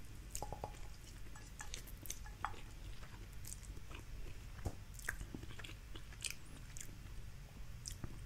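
A person chewing a mouthful of soft Indomie Mi Goreng instant fried noodles close to the microphone: faint, with scattered small wet clicks of the mouth.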